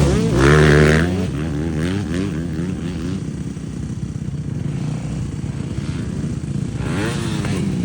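Motocross dirt bike engine revving, its pitch rising and falling repeatedly. It is loudest in the first second, settles lower and steadier, then climbs again near the end.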